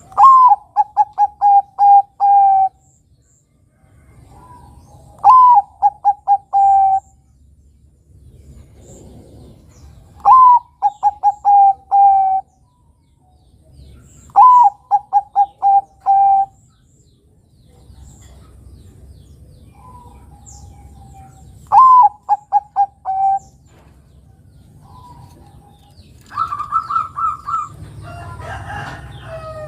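Zebra dove (Bangkok-type perkutut) singing: five loud phrases every four to five seconds, each a higher opening note followed by a quick run of five or six coos, with fainter coos between them. Near the end comes a rougher, different sound.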